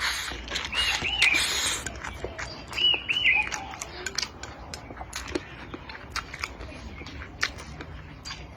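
A small bird chirping in short two-note calls, twice in the first few seconds, over scattered clicks and smacks of eating.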